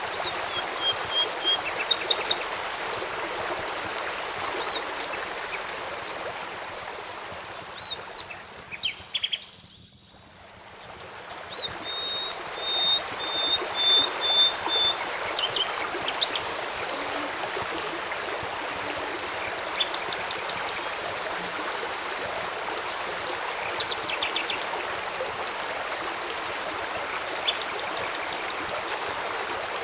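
Steady rushing of a flowing stream, with birds calling over it in short high whistled notes, including one run of quick repeated notes. The water sound briefly fades and swells back about a third of the way through.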